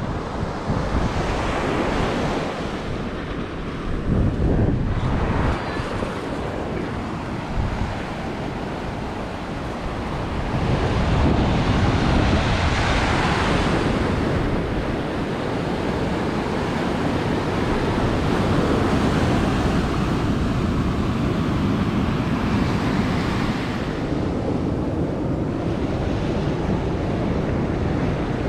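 Ocean surf breaking close to shore, a steady wash of waves that swells and eases several times, with wind buffeting the microphone.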